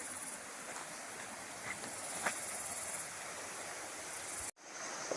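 Rainforest trail ambience: a steady hiss with a high-pitched insect drone and a couple of footstep snaps on the trail. The sound cuts out for an instant near the end, then a steadier high insect tone follows.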